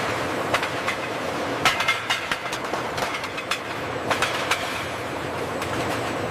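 Factory production-line machinery running, with irregular clicks and knocks over a steady mechanical noise.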